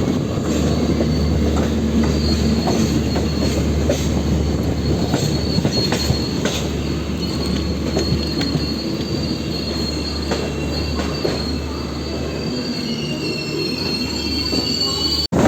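Train running on the rails: a steady low rumble with a thin, high wheel squeal and scattered clicks from the track. The sound cuts off sharply near the end.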